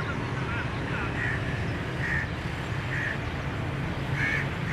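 A bird calling over and over, a short call about once a second, over a steady low hum.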